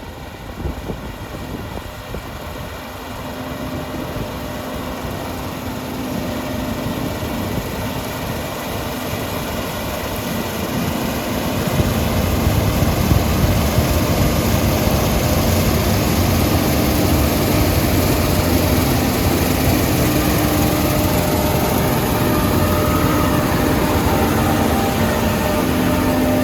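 Combine harvester running steadily at working speed, with engine and machinery noise growing louder over the first twelve seconds, then holding steady.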